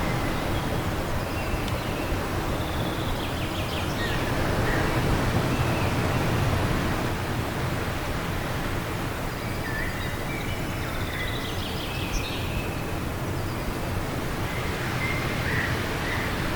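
Steady wind rushing, swelling a little a few seconds in, with small birds chirping now and then over it.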